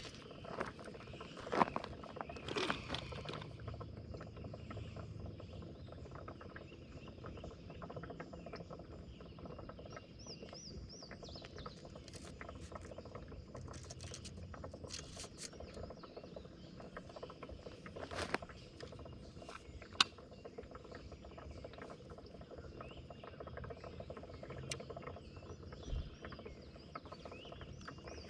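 Steady high-pitched insect drone, with scattered sharp clicks and knocks over it.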